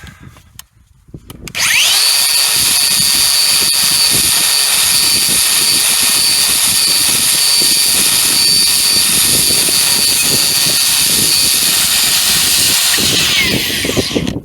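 Hand-held electric power tool spinning up with a rising whine, running steadily at speed with a high whine and scrubbing noise, then winding down near the end. It is being used to clean corrosion off a part.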